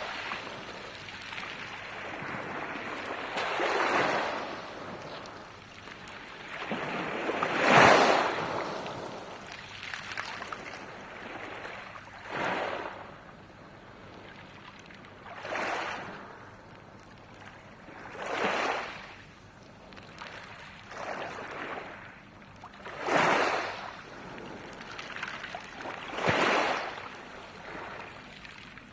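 Gentle Black Sea surf on a pebble beach: small waves break and wash over the stones every three to four seconds, each swell rising and fading, with the second one the loudest.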